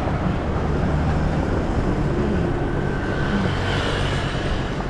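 Road traffic: motor vehicles running past with a steady low engine hum over road noise.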